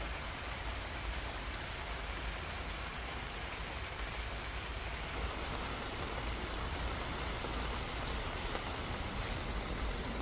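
Steady rain falling, an even hiss with no single drops standing out, over a low rumble.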